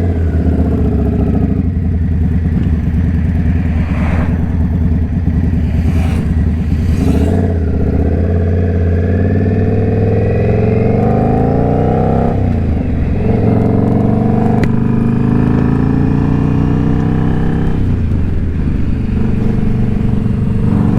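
Indian Scout Bobber's V-twin engine and exhaust under way, pulling up through the gears. The pitch climbs, drops at a shift about twelve seconds in, climbs again and holds steady, then eases off briefly near the end.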